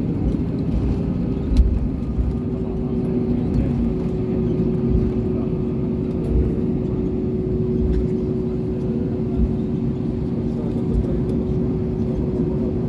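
Airbus A320neo cabin noise: a steady engine hum with two held tones over a low rumble, with a few short thumps, the sharpest about one and a half seconds in.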